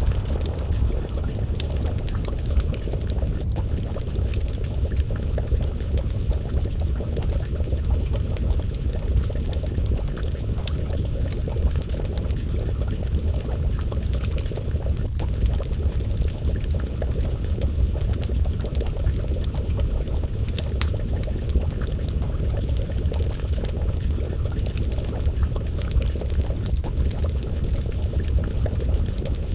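Wood fire crackling with many small scattered pops over a steady low rumble, and a pot of stew bubbling as it simmers.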